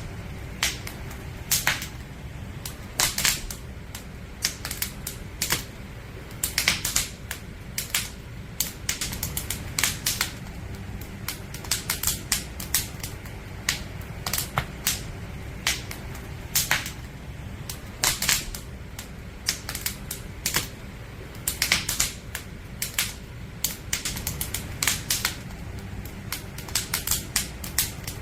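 Firewood burning in a campfire, crackling with irregular sharp pops and snaps several times a second over a low steady rumble.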